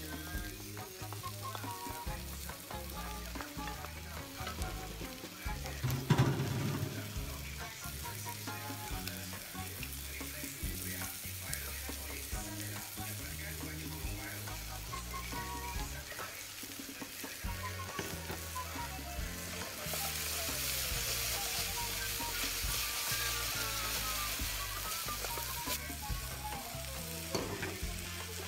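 Yellow noodles and chicken stir-frying in a wok over a gas burner, sizzling steadily while a wooden spatula stirs and tosses them. There is a sharp knock about six seconds in. The sizzle turns louder and hissier about two-thirds of the way through.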